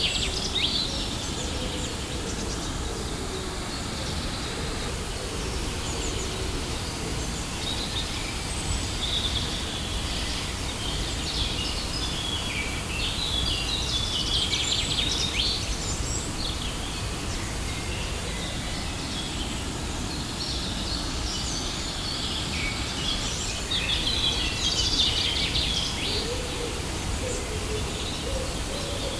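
Waterfall rushing steadily, with birds chirping and singing over it in several spells, and a few low hooting calls near the end.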